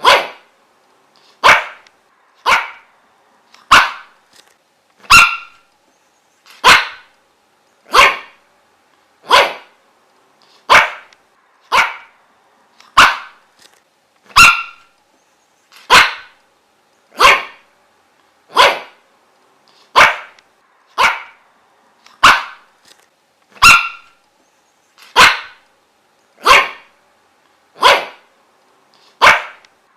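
A dog barking over and over: single short, sharp barks at an even pace, about one every second and a quarter.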